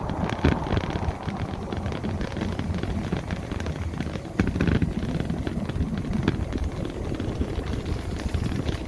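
Wind rumbling on the microphone and road noise from a moving electric motorbike, with a few short knocks scattered through.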